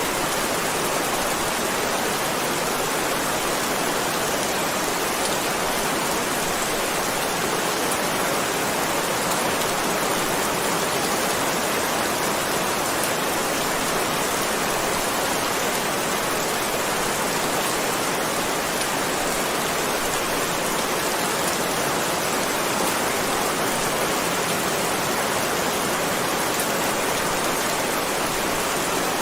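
Heavy rain falling steadily, an even unbroken hiss of raindrops.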